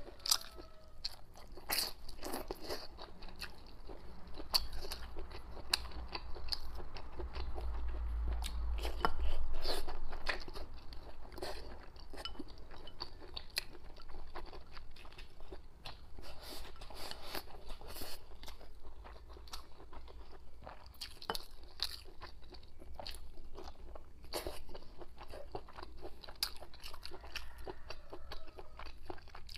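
Close-miked eating: a person chewing and biting soft pressed tofu skin and rice, with many small wet mouth clicks and smacks. A louder low rumble comes in for a few seconds about a third of the way through.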